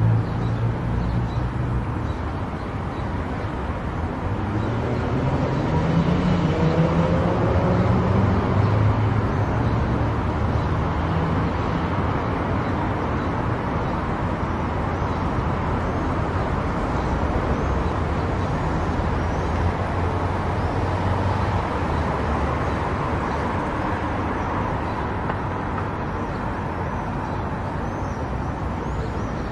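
A car driving on a road: steady engine and tyre noise, with the engine pitch rising for a few seconds about five seconds in as it speeds up, then holding steady.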